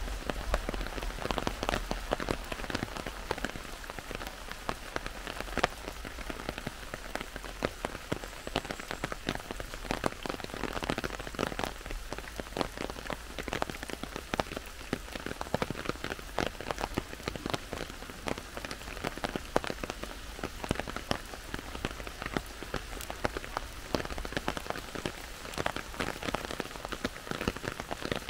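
Heavy rain falling in a forest: a dense, steady patter of many drops.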